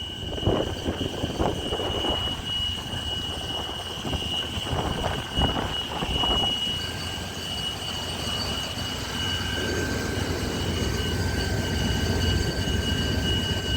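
Truck engine idling with a low rumble, running after a jump-start from a solar-charged battery, with a thin steady high whine over it. The rumble grows a little about ten seconds in.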